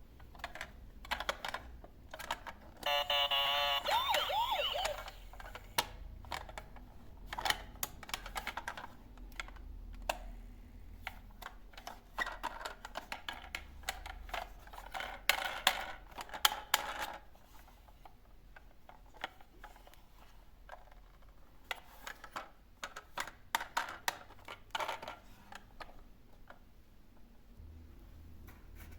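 Plastic toy vehicles clicking and rattling as they are handled, in irregular runs of sharp clicks. About three seconds in, a toy's electronic sound plays for about two seconds, a warbling tone.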